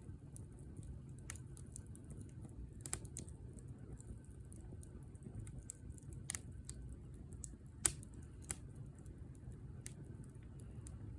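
Wood fire crackling: scattered sharp pops and snaps of burning wood, the loudest about eight seconds in, over a low steady rumble.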